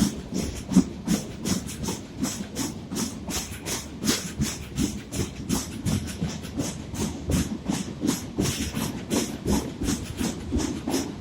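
A moving passenger train heard from aboard: wheels clattering rapidly and steadily over the track, with a continuous rumble and hiss of the running train.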